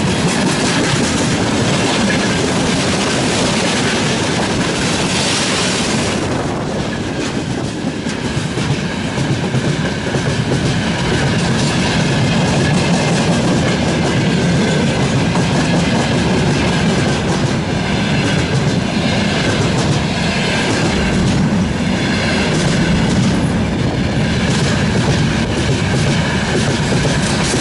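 Loaded freight train rolling past at speed, its wagon wheels clattering steadily over the rail joints with a faint high squeal of wheels on rail.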